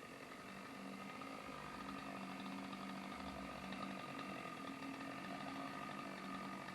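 An engine idling steadily and faintly, a low steady hum with no revving.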